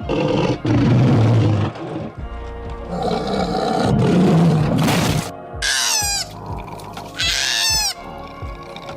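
Background music with a steady beat under animal calls: two long, deep, rough calls, then several short high calls that fall in pitch.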